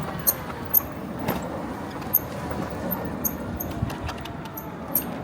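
Car on the move: steady engine and road noise, with a scattering of short sharp clicks and rattles.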